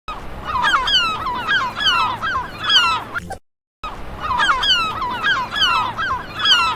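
A flock of geese honking: many short, overlapping calls that drop in pitch. The calls break off just past three seconds, then the same run of honks starts over.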